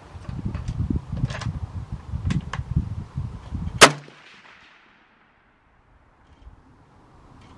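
Low rumbling with several fainter sharp cracks, then one loud rifle shot almost four seconds in. After the shot the sound drops away almost to silence.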